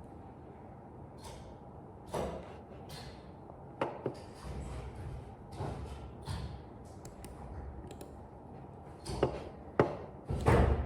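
Irregular soft knocks and rustling handling noises, with sharp clicks about four seconds in and near ten seconds, and the loudest knock near the end.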